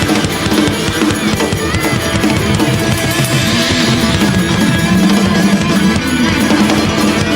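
Instrumental rock band music with drum kit and electric guitar playing.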